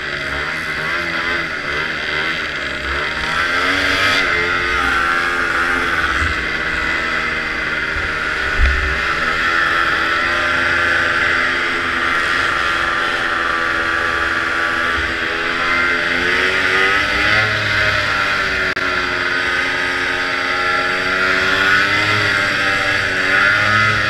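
Vintage racing snowmobile's two-stroke engine running hard, its pitch rising and falling as the throttle changes, over a steady rushing hiss of wind and track. A single knock about nine seconds in.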